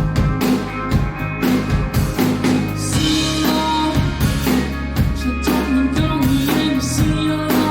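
Indie rock band playing live: drum kit hitting a steady beat under electric guitar and bass, with no singing.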